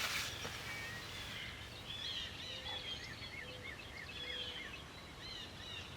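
Small songbirds chirping and singing, with a run of about seven quick repeated notes in the middle. A brief rustle at the start.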